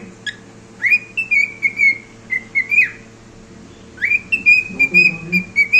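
Cockatiel whistling its song: two phrases of clear whistled notes, each opening with a quick upward swoop and ending on a falling note.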